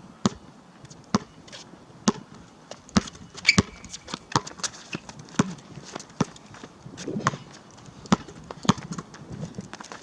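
Basketball bouncing on an outdoor court, a string of irregular sharp bounces with a cluster of louder hits about three and a half seconds in.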